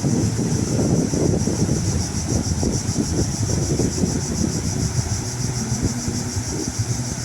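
Wind buffeting the microphone: a steady low rumble with flutter, under a constant high hiss.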